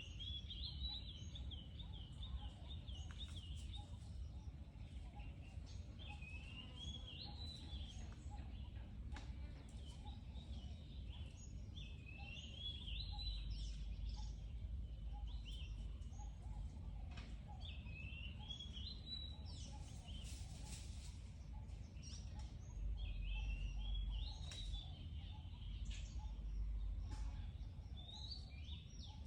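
A songbird singing short, warbling phrases, repeated about every four to five seconds, over a steady low rumble.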